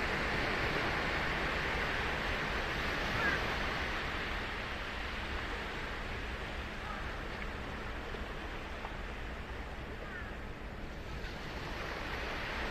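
Ocean surf breaking and washing up a beach: the wash is loudest at first, dies down through the middle, and a new wave swells up near the end.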